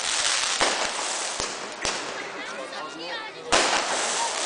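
Aerial fireworks going off: a series of sharp bangs, about five, with dense crackling between them. The loudest bang comes about three and a half seconds in, after a brief lull.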